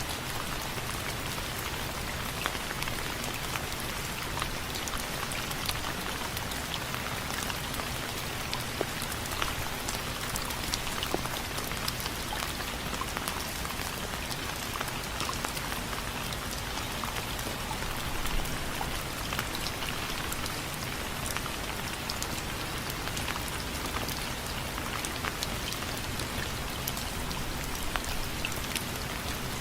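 Steady rain with many individual drops tapping sharply on a window frame.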